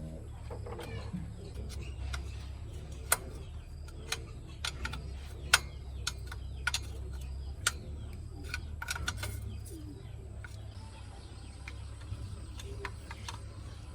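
A string of short, sharp clicks and taps, about a dozen at uneven intervals and loudest between the third and eighth seconds, over a steady low hum.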